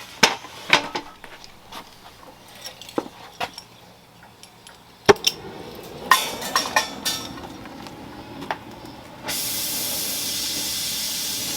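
Oxygen-acetylene torch with a rosebud tip being set up and lit: scattered clicks and knocks, a sharp snap about five seconds in, then a rushing flame. About nine seconds in it turns abruptly into a loud, steady hiss as the torch runs at full flame.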